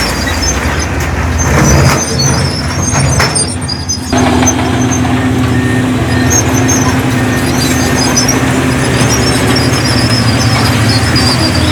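Heavy diesel earthmoving machinery running steadily, the engines of a bulldozer and dump trucks working rock fill. The engine note changes abruptly about four seconds in.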